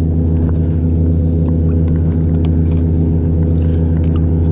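A steady, unchanging low motor hum, with a few faint clicks and knocks from handling on top.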